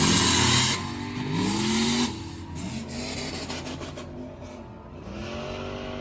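Truck engine revving hard, its pitch climbing in long rising sweeps, with a loud rushing noise in the first second. It grows fainter after about two seconds, with scattered clicks, then climbs again near the end.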